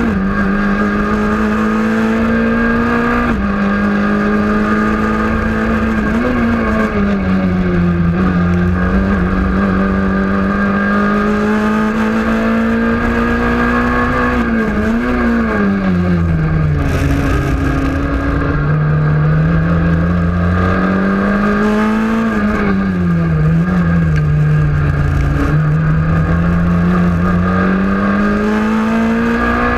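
Renault Clio rally car's engine heard from inside the cockpit under hard driving, its pitch climbing steadily and dropping sharply at gear changes and lifts, about five times.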